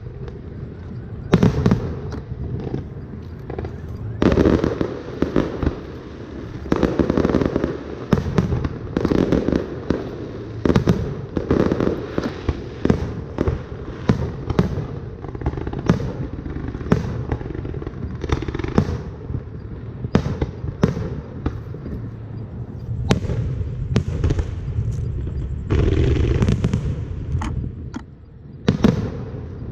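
Fireworks display: aerial shells bursting in quick, irregular succession with booms and sharp cracks, the bangs overlapping almost without pause. There is a brief lull near the end.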